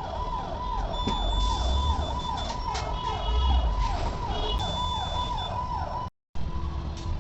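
Electronic siren-like tone repeating a fast falling sweep about three times a second over low vehicle rumble, cut off abruptly near the end.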